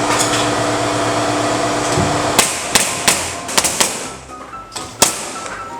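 A steady mechanical noise with a low hum that cuts off about two and a half seconds in, then a quick run of about eight sharp knocks as timber ceiling framing is fastened, the last one a second later.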